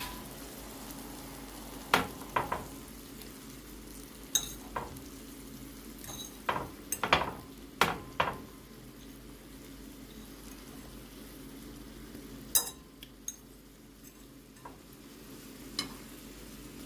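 Chicken breasts sizzling as they fry in a pan, with scattered knocks and clinks of a utensil against the pan.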